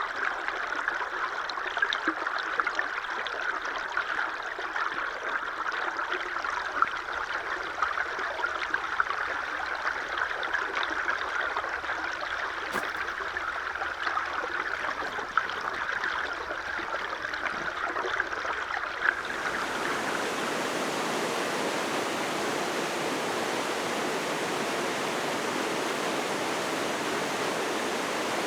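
Steady rush of running water. About two-thirds of the way through it changes abruptly to a broader, smoother hiss.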